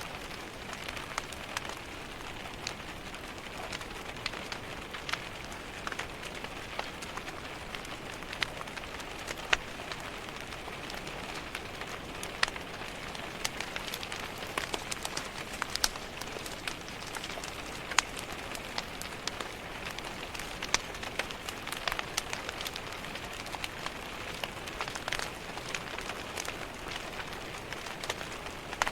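Steady rain hissing and pattering on a window, with a wood fire crackling: an even wash of rain under frequent sharp, irregular clicks and pops.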